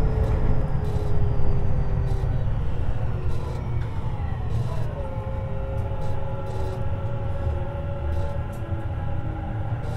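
Running sound of a Tobu 50090 series electric train from under the car floor: a steady low rumble from the wheels and track with motor and inverter whine in several tones that slowly fall in pitch, as the train slows.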